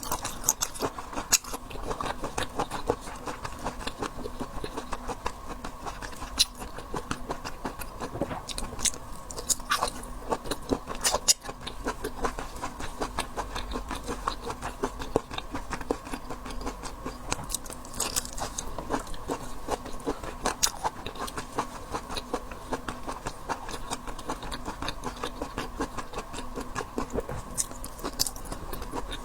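Close-up eating of seafood: chewing and biting with many small wet clicks and cracks of shell, going on without pause, over a faint steady hum.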